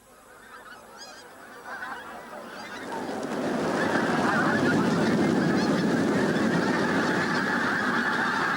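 A large flock of geese honking, many calls overlapping into a dense din that builds up over the first few seconds and then holds steady.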